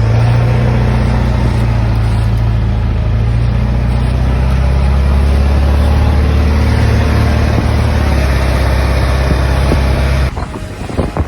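An engine running steadily with a deep, even hum, then cutting off suddenly about ten seconds in.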